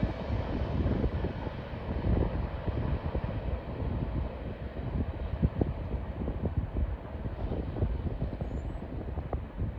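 Tail end of a long freight train rolling away: a low rumble of wheels on rail with scattered clicks and knocks, easing slightly toward the end.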